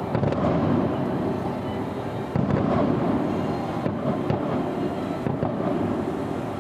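Distant aerial fireworks booming, with a rolling rumble and crackle between shells; two louder bursts land, one at the start and one about two and a half seconds in.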